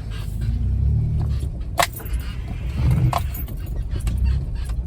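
Jeep Wrangler's engine running low and steady, heard from inside the cab as it crawls a snowy trail in four-wheel drive, swelling and easing with the throttle. There are a few sharp knocks and rattles from the vehicle jolting over the bumps, the loudest about two seconds in and again about a second later.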